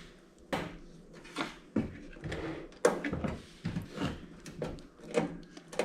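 Irregular clicks and knocks of the steel casing and parts of a toaster oven being handled and worked apart by hand, a dozen or so short knocks at uneven intervals.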